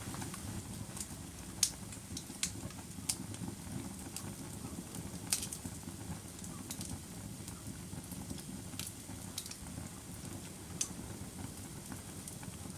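Wood fire burning with a steady low rush of flames and irregular sharp crackles and pops, the loudest pops about one and a half and five seconds in.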